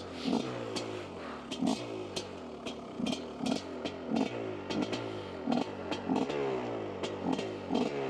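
Dirt bike engine revving up and down over and over, with sharp clicks and knocks mixed in about every half second to second.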